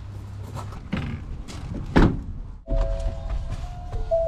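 A low steady hum with a light knock, then a loud door thunk about two seconds in. Background music with held notes starts just after.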